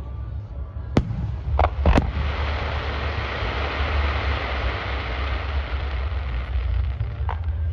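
Fireworks at a display: sharp bursts about a second in and again around two seconds, then several seconds of dense, steady hiss, and one more burst near the end. A low rumble runs underneath.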